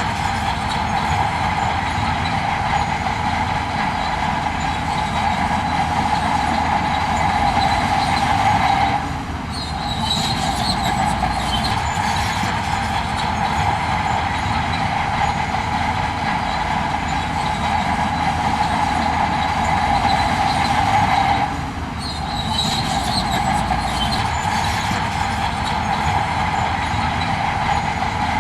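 Heavy earthmoving machinery working: a steady diesel drone with a metallic squealing edge. It drops off briefly twice, about 9 and 21 seconds in, each time picking back up with a short high squeal.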